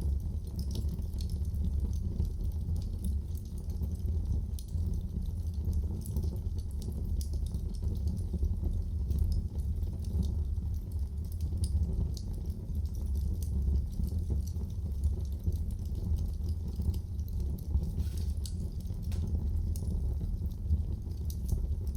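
Wood fire in a fireplace crackling: frequent small sharp crackles and pops over a steady low rumble of the flames.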